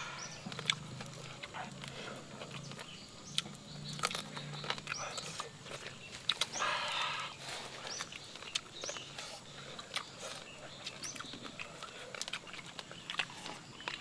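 Wet chewing and lip-smacking of people eating roasted sparrows by hand, with many short sharp smacks and clicks.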